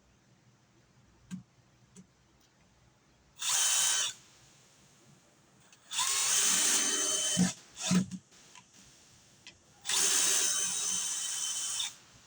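Power drill running in three bursts of about half a second, one second and two seconds, with two short knocks between the second and third, as when screws are driven into the wooden table.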